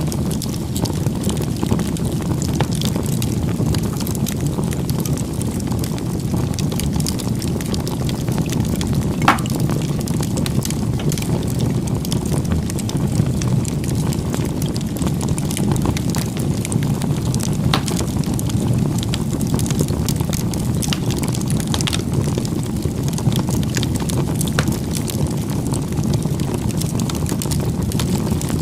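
Wood campfire burning, with a steady low rumble of flames and scattered crackles and pops from the burning wood, one sharper snap about nine seconds in.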